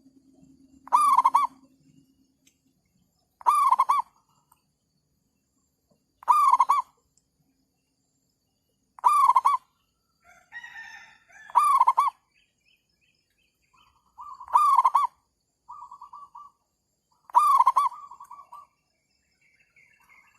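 Zebra dove (merbuk) calling: a short cooing phrase repeated seven times, about every three seconds. Fainter, different bird calls come in between from about halfway through.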